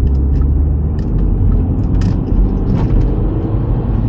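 Engine drone and road rumble inside the cabin of a big-turbo Audi B5 cruising at steady speed. A few light knocks and rattles come through as it rides over bumps on stiff suspension.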